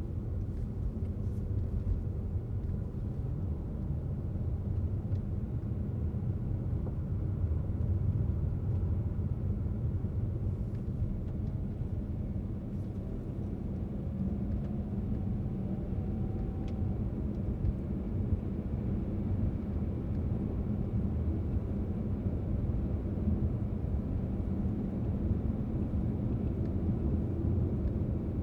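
Car driving at a steady speed: continuous low rumble of tyres on the road and the engine running.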